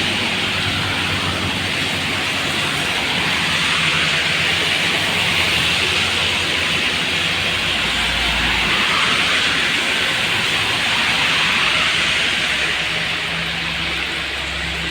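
Steady hiss of rain with tyres on a wet road and vehicle engines passing in traffic.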